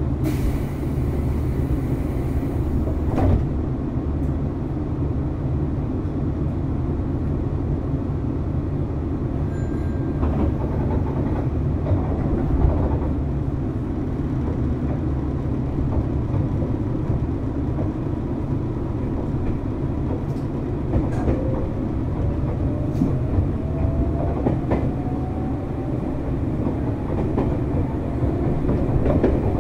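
Running noise aboard a Nankai 7100-series electric train car: a steady low rumble of wheels on rail with occasional clicks, and a faint rising whine in the second half.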